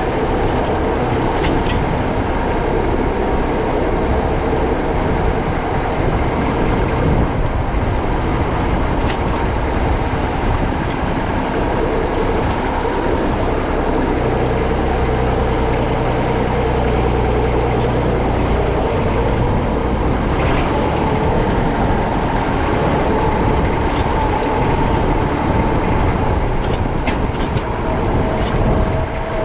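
Massey Ferguson 35X tractor's three-cylinder diesel engine running steadily.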